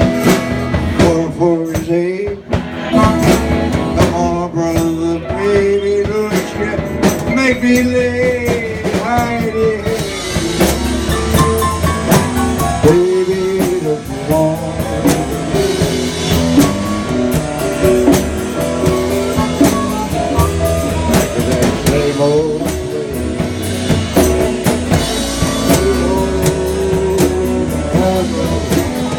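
Live-style blues-rock music: a singer over electric guitar, bass and a drum kit with a steady beat.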